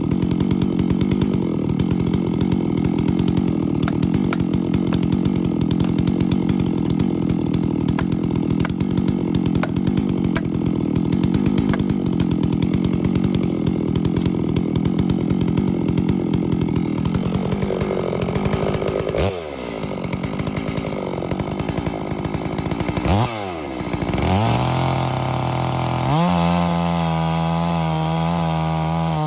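Holzfforma G660 two-stroke chainsaw cutting wood under load, a steady low drone. About two-thirds through, the engine pitch drops and swings up and down as the load comes off, and near the end it runs steadily at high revs with a clear whine.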